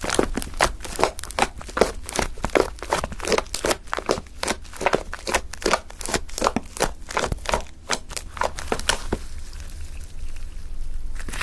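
Fluffy shaving-foam slime being squeezed and pressed by hand, giving rapid crackly pops and squelches of trapped air, several a second. The popping stops about nine seconds in, leaving a faint hiss.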